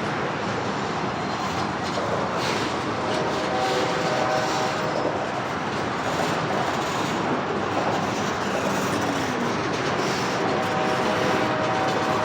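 CSX freight train cars rolling past, a steady rumble and rattle of wheels on rail. A faint steady tone comes in about three seconds in and again near the end.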